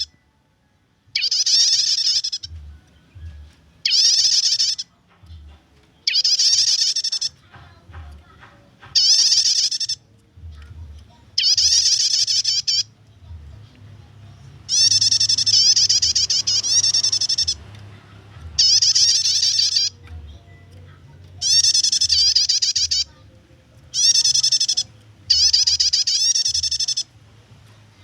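Prinia (prenjak) giving its rattling chatter call: about a dozen bursts of fast, high-pitched repeated notes, each lasting one to two seconds, with short pauses between.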